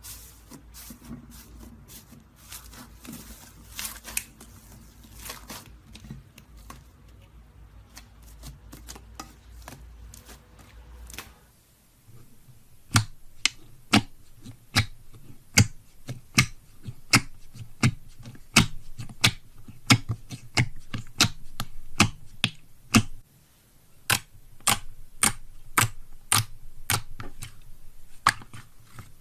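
Faint, irregular clicks over a low hum. These give way suddenly, about a third of the way in, to a long run of sharp clicks or taps at about two a second, with one brief pause.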